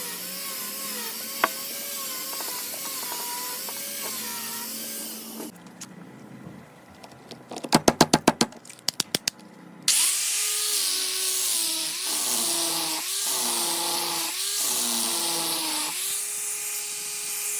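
A power tool spins a sandpaper sanding wheel against wood, with a steady whir and abrasive hiss. It stops about five seconds in. Two quick runs of sharp taps follow just before the eight-second mark. About ten seconds in the tool starts again, louder, and its pitch sags each time the wheel is pressed into the work.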